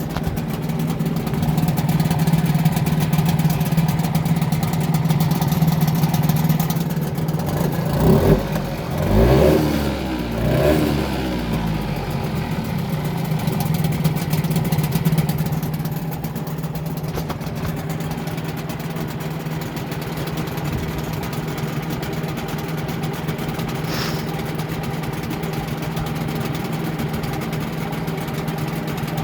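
Yamaha 4 hp outboard engine, freshly rebuilt with new main seals, bearings and gaskets, running steadily, revved up and back down a few times about eight to eleven seconds in before settling back to a steady run.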